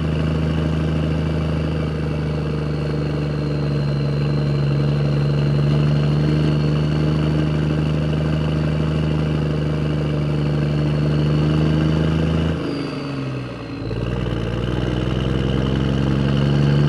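An engine running steadily, with a sag in its pitch and level about 13 seconds in before it picks up again.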